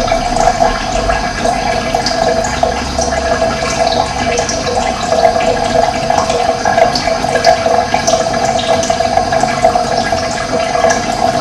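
Steady rush of running water, with short, high bird chirps scattered throughout.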